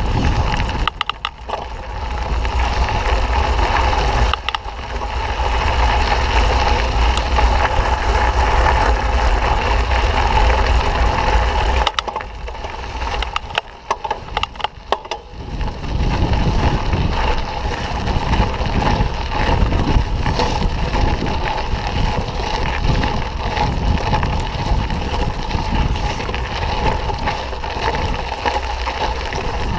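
Mountain bike rolling over a dirt trail: tyres crunching and the bike rattling, with a steady rush of noise. It turns quieter with scattered clicks for a few seconds about halfway through.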